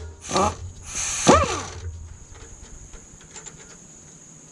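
Hand wrench loosening a rocker arm assembly bolt on a Dodge 3.5L V6 cylinder head. A few sharp clicks and scrapes come in the first second and a half, with a brief squeaking creak about a second in as the bolt breaks free, then faint ticks.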